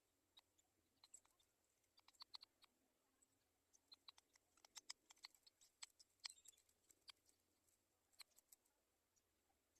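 Faint, irregular clicks and taps in scattered clusters, with no calls, from black-shouldered kite chicks moving about in their stick nest.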